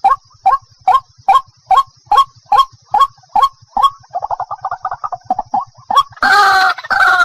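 White-breasted waterhen (ruak-ruak) calling, as played for a bird lure: a string of short, upward-flicking notes about two and a half a second, breaking into a fast stuttering run, then loud, harsh, drawn-out calls near the end. A faint steady high hiss runs behind.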